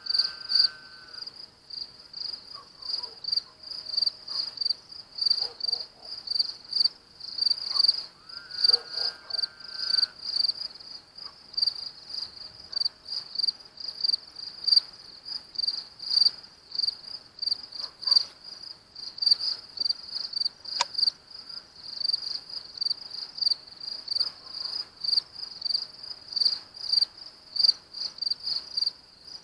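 Crickets chirping in a steady, evenly pulsing chorus. About nine seconds in, a short, held higher call from an unknown source sounds over it.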